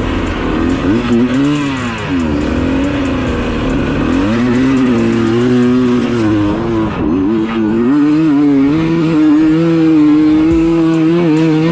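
Dirt bike engine revving up and down several times, then holding at a steady, slightly wavering pitch.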